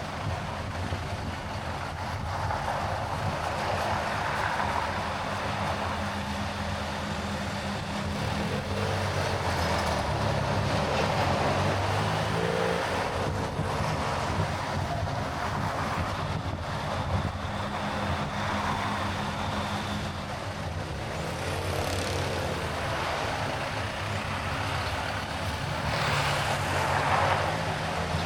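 Steady road and engine noise of a car driving on a highway, swelling now and then.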